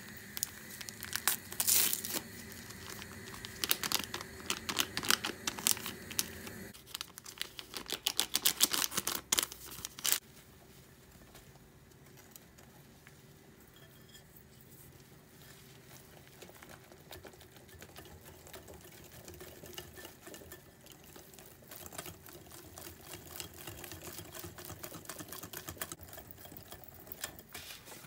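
Light kitchen handling sounds: a run of sharp clicks and rustles over a steady appliance hum, which stops about seven seconds in. Then quieter, occasional rustling.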